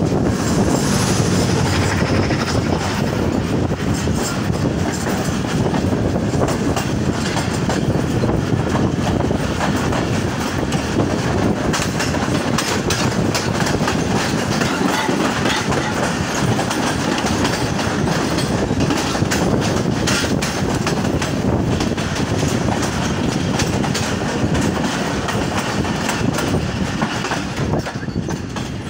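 Two passenger trains passing each other at speed on adjacent tracks. The oncoming train's coaches rush past close alongside, over the steady rattle and clickety-clack of wheels on the rail joints, heard from the open doorway of a moving coach.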